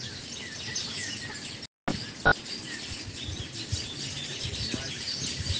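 Birds chirping faintly in the background. The sound cuts out completely for a moment just under two seconds in, and there is a single sharp click soon after.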